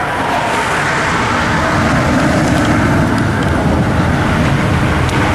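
Intermodal freight train's container cars rolling past, steel wheels on rail making a steady, loud rumble.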